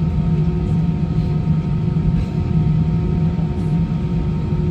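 Airliner cabin noise from inside the plane: a steady low rumble from the engines and airframe, with a hum of several steady tones running through it.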